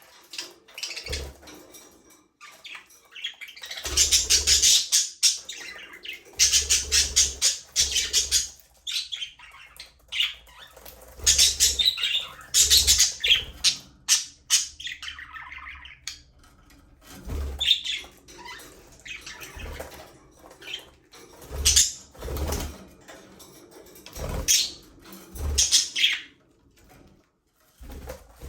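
Budgerigars chattering and squawking in bursts of raspy, rapid warbling with short pauses between, some bursts carrying low thumps underneath.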